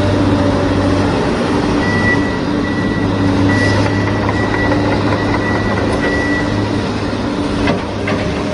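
Steady truck engine running, with a high, pulsing reversing-alarm-style beep from about two seconds in until about six and a half seconds.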